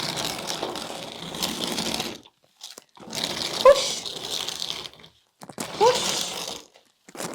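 Toy digger pushing a pile of small rocks, which scrape and crunch together in four bursts of one to two seconds each, with short gaps between the pushes.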